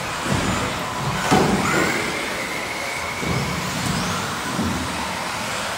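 Four-wheel-drive RC racing buggies running on the track, their motors whining up and down in pitch as they accelerate and slow, with a sharp knock about a second in.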